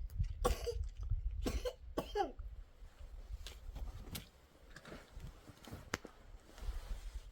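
A person coughing three times in quick succession early on, followed by a few light clicks and knocks over a low steady rumble.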